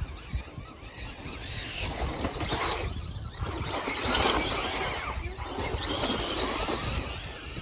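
Electric RC cars driving past, the noise of their motors and tyres swelling and fading, loudest about four seconds in.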